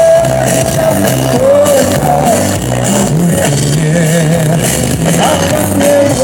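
A live pop band playing, with bass and drums under a lead melody line that holds notes and wavers between the sung phrases.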